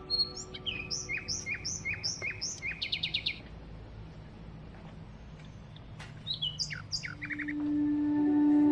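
A bird singing: a run of quick falling chirps that ends in a fast trill, then after a few seconds' pause a second, shorter phrase of chirps. Soft background music comes in near the end.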